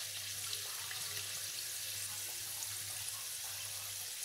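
Filled semolina pastries frying in hot oil, a steady, even sizzle.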